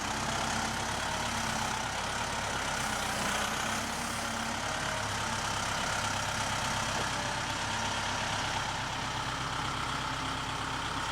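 An engine idling steadily at low speed.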